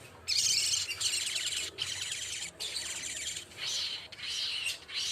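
Sogok ontong songbird singing a fast, dense chattering song, high-pitched, with only a few brief pauses.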